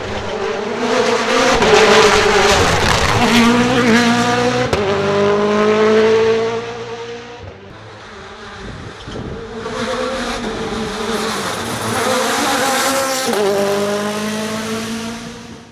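Rally car engine under hard acceleration, its pitch climbing and dropping back at upshifts. It is loudest in the first six seconds, fades, then climbs again from about ten seconds in, with another upshift near the end, and cuts off suddenly.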